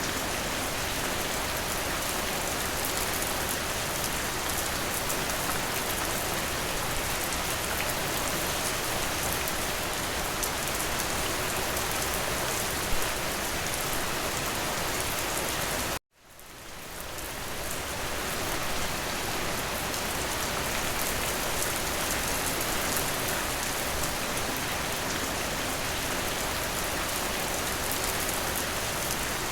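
Steady rain. A single sharp tick about 13 seconds in; about 16 seconds in the sound cuts out abruptly and fades back up to full over roughly two seconds.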